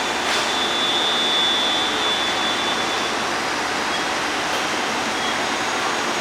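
JR Shikoku 2700 series diesel train's engines running at the platform, a steady rushing noise, with a high steady tone over the first three seconds.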